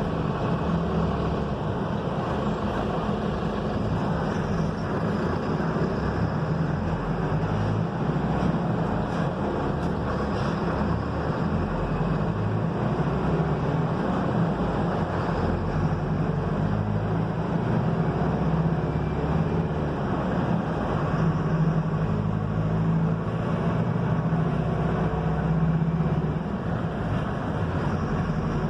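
Mercedes-Benz OF-1721 bus's diesel engine running as the bus drives, with road noise; the engine note shifts up and down in pitch several times as it changes speed.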